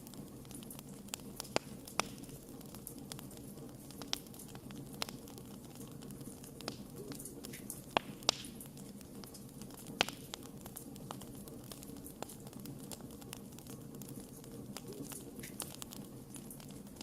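Wood campfire crackling: scattered sharp pops and snaps of burning wood, a few louder ones near the middle, over the steady low rush of the flames.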